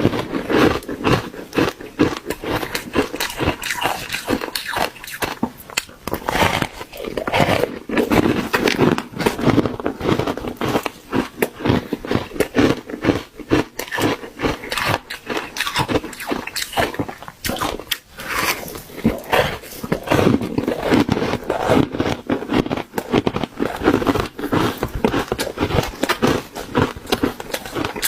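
Close-miked biting and chewing of ice: a dense, continuous run of soft crunches and crackles.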